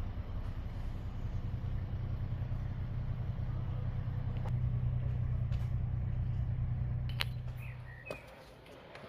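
A vehicle engine running with a steady low rumble that dies away about eight seconds in, with a couple of faint bird chirps near the end.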